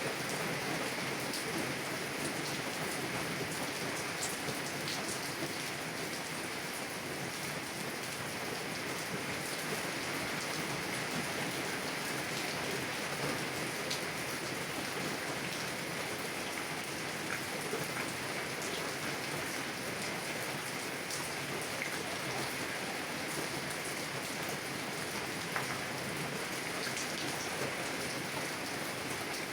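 Heavy rain on a car window, heard from inside the car: a steady, dense patter with scattered sharper drop ticks.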